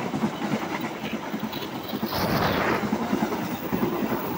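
Passenger train coaches passing close at speed, steel wheels clattering over the rail joints under a steady rumble.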